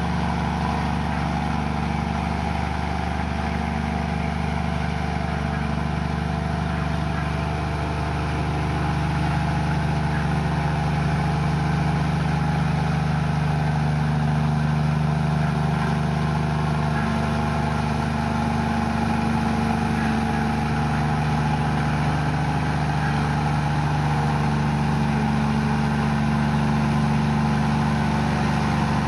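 Komatsu bulldozer's diesel engine running steadily, growing a little louder about a third of the way in.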